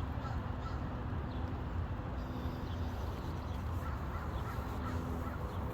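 Faint bird calls, likely crows cawing, over a steady low rumble.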